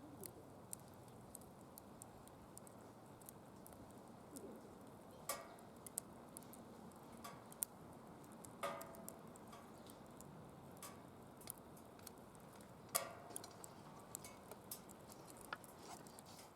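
Firewood burning in a DOD Mecha-Moe Fire pit: irregular sharp crackles and pops over a low steady hiss of flame, with a few louder pops about five, eight and a half and thirteen seconds in.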